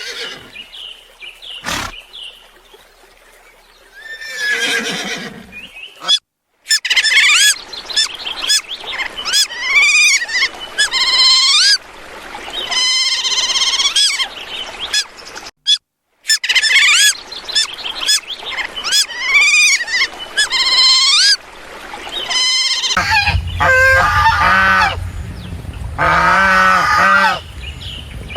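Birds calling: about six seconds in, rapid runs of shrill chirping calls with pitch sweeping up and down begin, and the whole run plays through twice. In the last five seconds come fuller, lower calls over a steady low hum.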